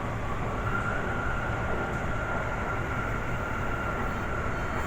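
Toei Asakusa Line 5500 series train running, heard inside the passenger car as a steady rumble. A steady high whine comes in about half a second in and holds.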